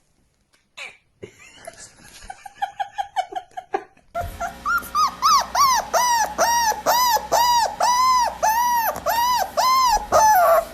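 A dog whining and yelping in a fast series of high calls, each rising and then falling in pitch, about two a second. The calls start softly and turn loud about four seconds in.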